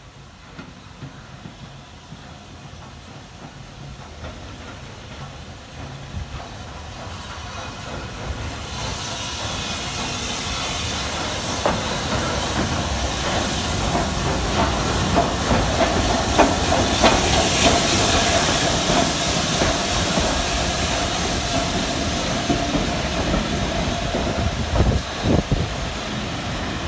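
Steam locomotive, a BR Standard Class 5MT 4-6-0, drawing steadily closer until it is loud. It hisses steam from about a third of the way in, with wheels clicking and a steady high squeal through the second half.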